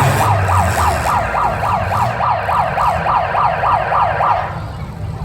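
Electronic siren in a fast yelp, rising and falling about three to four times a second, over the low running of derby car engines; the siren cuts off about four and a half seconds in.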